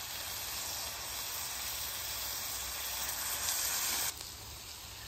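Brisket burgers and shaved ribeye with peppers and onions sizzling steadily on a hot Blackstone 22-inch flat-top griddle. The sizzle drops abruptly in level about four seconds in.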